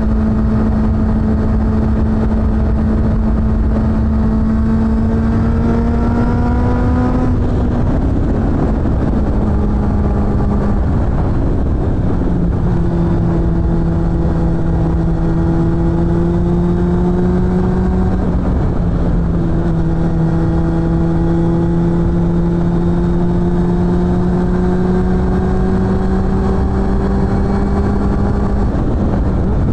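Suzuki GSF600 Bandit's inline-four engine through an aftermarket BOS exhaust, pulling under load on the move. The note climbs slowly and drops at gear changes about 8, 12 and 19 seconds in, then rises again near the end, over a low rush of wind and road noise.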